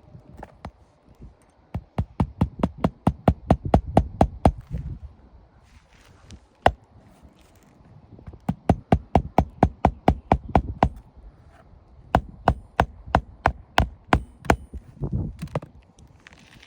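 Three quick runs of sharp, evenly spaced knocks or taps, each lasting about three seconds, with a single louder knock between the first two runs.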